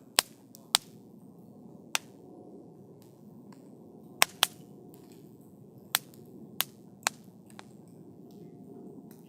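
Wood campfire burning with a low steady rustle, broken by about ten sharp, irregular crackles and pops from the burning logs.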